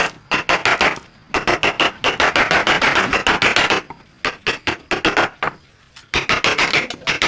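Rapid sharp knocks of a hand tool striking wood, about six or seven a second, in runs of one to two seconds broken by short pauses.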